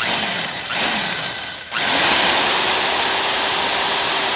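Old handheld electric drill boring a screw hole into the wooden stock of a Gewehr 98 rifle, the bit being backed out and run back in. The motor pitch drops twice in the first second and a half, then picks up and runs steady from about two seconds in, beginning to slow near the end.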